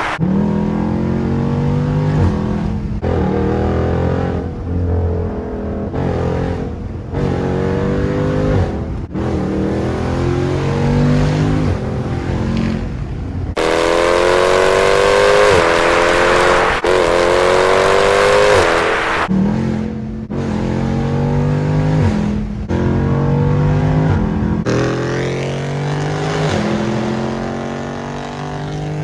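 SRT car's engine accelerating repeatedly through the gears from inside the car. The revs climb and drop back at each upshift, with a longer, louder pull about halfway through.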